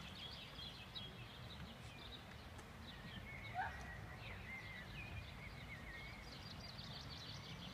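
Small birds chirping faintly, many short high calls, with one brief sliding call about three and a half seconds in, over a low steady outdoor background rumble.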